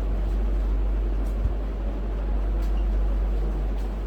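Steady low background rumble with a noisy hiss over it, even throughout.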